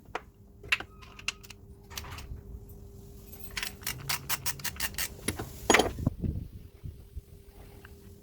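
Socket ratchet clicking in short runs, about four clicks a second at its steadiest, as a 10mm bolt holding an engine belt pulley is undone, with a metallic knock near the end.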